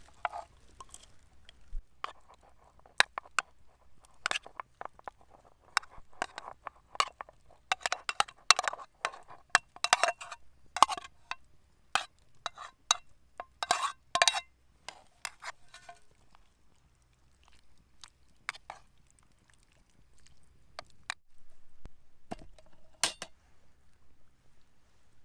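Irregular clinks and knocks of cooking utensils and cookware, coming thick and fast in the first half and thinning to a few isolated taps later.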